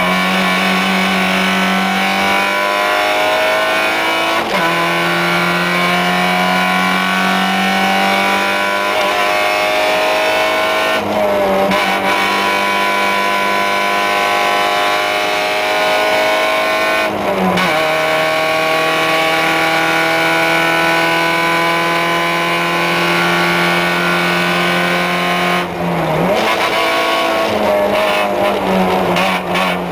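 Fiat Seicento rally car's engine heard from inside the cabin, driven hard under load: its note climbs slowly in pitch, broken about four times by brief dips as the driver shifts or lifts for corners.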